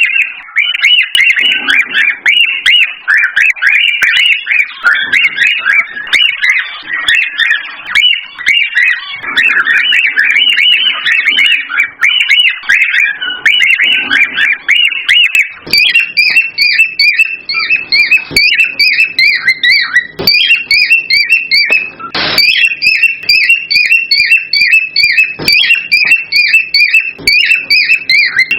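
Cockatiels chirping and whistling nonstop in high, quick notes. About halfway through, this gives way to a fast, evenly repeated run of short chirps.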